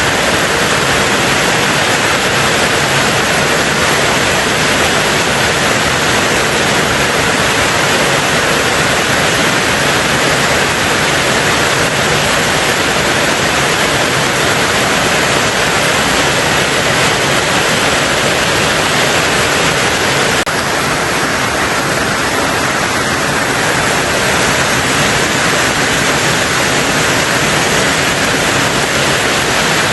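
Steady, dense rain on a tin roof, an even hiss with no breaks; the sound thins slightly around two-thirds of the way through.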